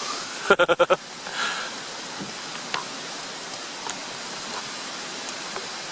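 A short burst of laughter, about five quick "ha" pulses, about half a second in, over a steady rushing background noise with a few faint ticks.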